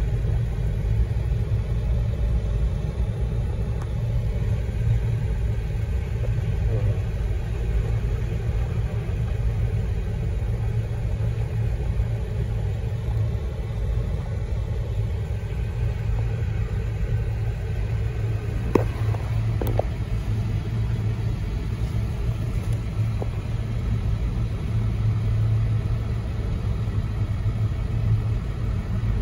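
Union Pacific grain train rolling past a grade crossing, heard from inside a stopped car as a steady low rumble. Two faint clicks come about two-thirds of the way through.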